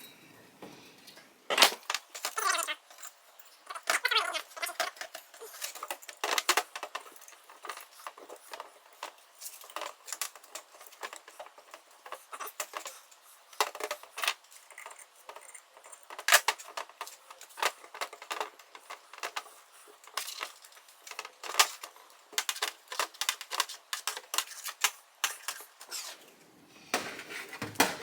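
Irregular clicks, taps and scraping as the switch wiring, taped to a pull wire and greased, is pulled and wiggled through the inside of a motorcycle handlebar.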